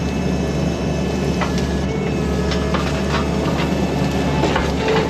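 Engine of the heavy equipment carrying a tree puller running steadily under work, with scattered clanks and knocks from the machine and attachment as it grips and pulls a small tree.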